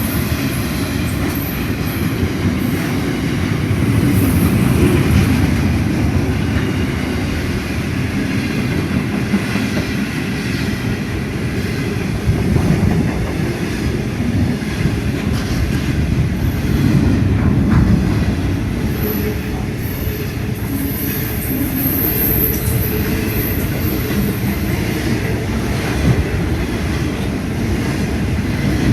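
Freight train wagons rolling past at close range: a steady rumble of wheels on rail, with brief high-pitched wheel squeals about twenty seconds in.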